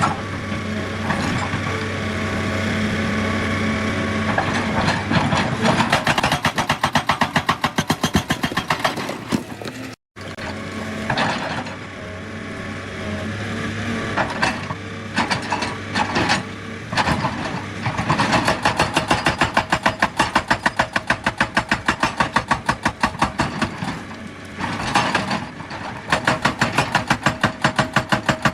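Excavator engine running under load with a hydraulic rock breaker hammering in fast, even strikes, about four a second, in two stretches, the second near the end. A brief cut about ten seconds in.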